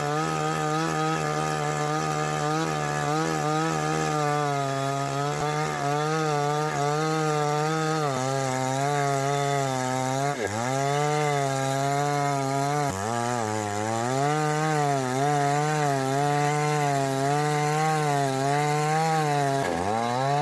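Chainsaw cutting wood, its engine note wavering as it works under load. About halfway through the engine sags in pitch twice in quick succession and then picks back up, and it sags once more near the end.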